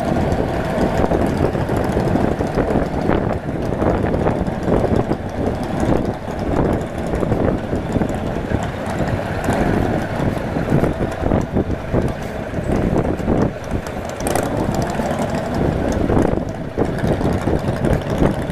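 Motorcycle engine running while riding, with heavy wind noise buffeting the microphone.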